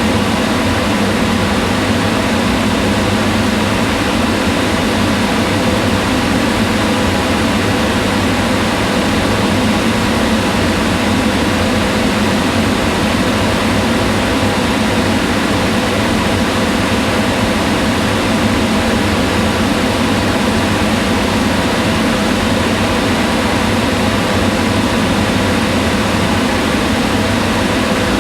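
Kitchen range hood extractor fan running steadily, a continuous whoosh of moving air with a low hum.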